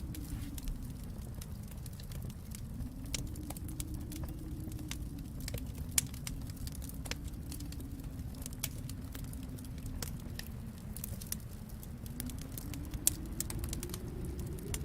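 Wood fire crackling in a fireplace, with irregular snaps and two sharper pops, about six seconds in and near the end, over a low steady rumble that slowly rises and falls in pitch.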